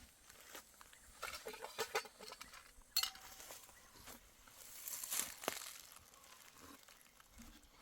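Dry rustling and crunching, broken by scattered sharp clicks, with one louder click about three seconds in.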